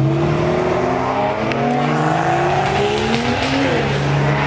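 BMW M4 CS's twin-turbo straight-six accelerating hard, its engine note climbing steadily in pitch, with a brief drop about three and a half seconds in, as at a gear change, before it rises again.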